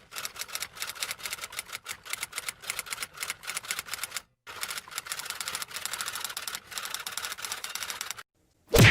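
Rapid clatter of typing keys, in two runs separated by a short break. Near the end comes a brief, loud sound that falls steeply in pitch.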